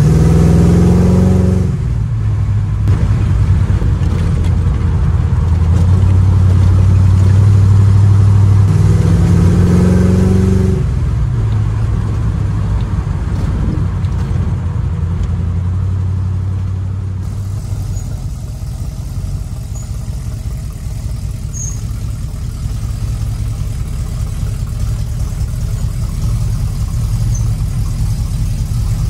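1936 Chevy coupe hot rod's engine pulling under acceleration, rising in pitch and dropping sharply at a gear change about two seconds in and again about ten seconds in, running steadily between. It then settles into a lower, quieter steady run from about seventeen seconds in.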